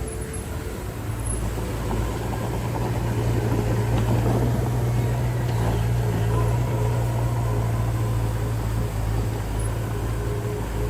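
Heavy-equipment diesel engine running steadily with a low hum, growing louder about three seconds in and then holding.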